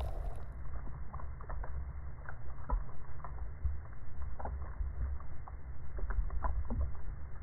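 Water splashing that turns muffled about half a second in as the camera goes under. After that, underwater sound through a camera housing: a steady low rumble with scattered clicks and crackles, a few a second.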